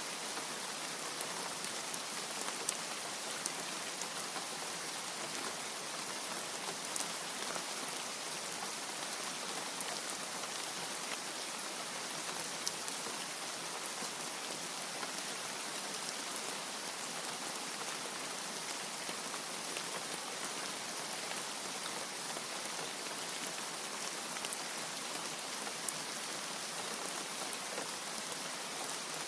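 Steady rain falling, a dense even hiss with scattered sharp drop ticks.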